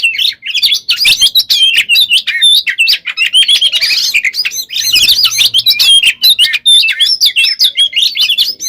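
Oriental magpie-robin (kacer) singing nonstop: a loud, dense run of quick, sharp whistled notes and chattering trills with no pauses, the continuous 'gacor konslet' style of song.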